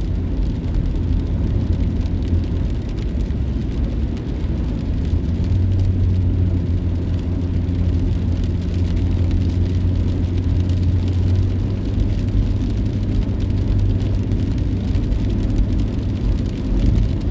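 Steady road and engine rumble of a moving car heard from inside the cabin, with a low hum that grows stronger about five and a half seconds in.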